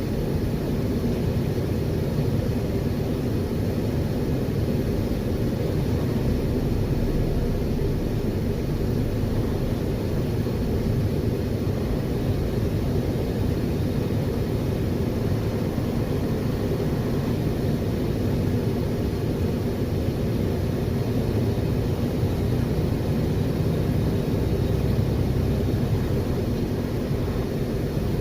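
Steady low drone of a semi truck's diesel engine and road noise, heard inside the cab while driving at an even speed.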